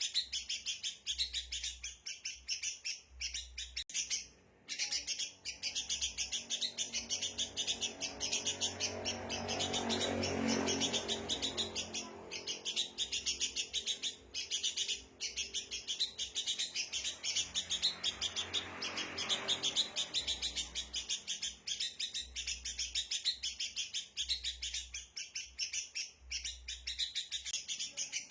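Sooty-headed bulbuls (kutilang) giving a rapid, continuous run of agitated, chattering alarm calls, typical of a bulbul disturbed or mobbing. A low rumble swells and fades twice, about ten and nineteen seconds in.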